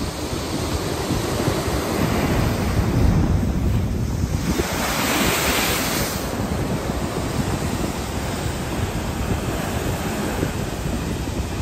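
Atlantic surf breaking and washing ashore, with wind rumbling on the microphone; a wave rushes in with a louder hiss around five seconds in.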